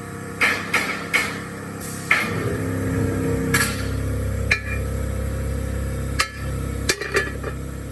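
Hammer blows on metal, about nine sharp strikes at an irregular pace, over the steady hum of an engine running.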